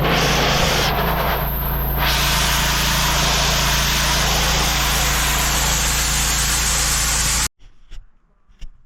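Gas-engine pressure washer running steadily, its high-pressure spray hissing as it blasts the retarder-treated surface paste off fresh concrete to expose the aggregate. The sound stops abruptly about seven and a half seconds in, leaving quiet with a few faint knocks.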